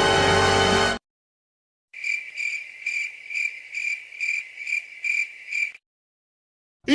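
Cricket chirping: a high, even chirp repeated about twice a second for roughly four seconds, the stock crickets effect used to mark an awkward silence. Before it, music cuts off about a second in, and a short sliding sound starts near the end.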